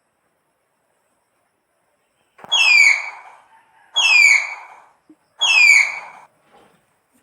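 An animal gives three high whistling squeals, each sliding downward in pitch, about a second and a half apart.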